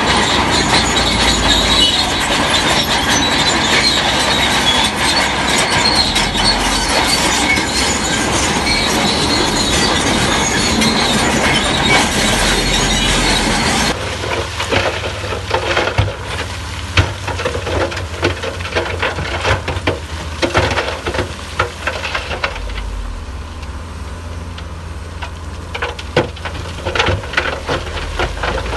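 Crawler bulldozer working: its steel tracks squeal and clatter over a running diesel engine. About halfway through the sound changes abruptly to a lower engine rumble with scattered knocks and clanks.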